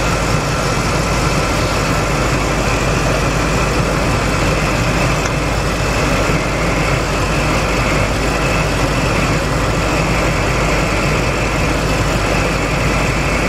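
A 2004 Lincoln Navigator's 5.4-litre V8 idles steadily, with a faint high whine over it. It is running rough with a cylinder misfire, and its number 4 ignition coil is unplugged.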